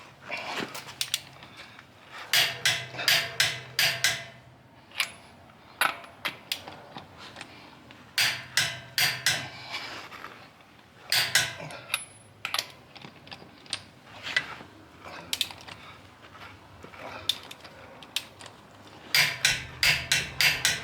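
Hand ratchet clicking in short runs of rapid clicks, with single clicks and knocks between, as small nuts and bolts are run down.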